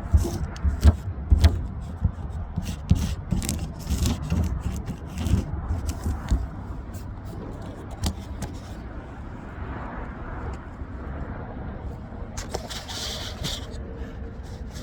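Hands working with greenhouse plastic film and fittings: a busy run of clicks, rustles and scrapes that thins out after about nine seconds, with a short hissy rustle a little before the end. A steady low rumble underneath.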